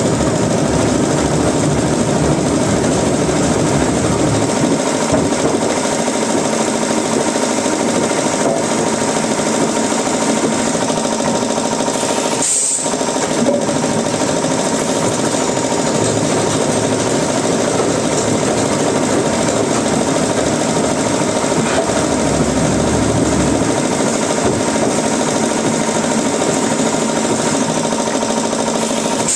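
Woodworking machinery running steadily, a loud dense rattling clatter, broken by a brief dip about twelve seconds in.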